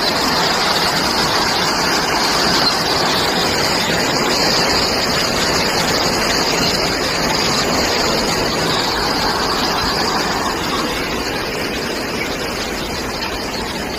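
Heavy rain pouring down in a steady, dense hiss, a little quieter toward the end.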